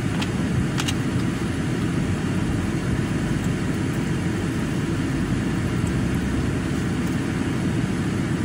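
Steady low rumble of a car idling, heard from inside the cabin, with a few faint crunchy clicks of crispy jerk chicken being chewed near the start.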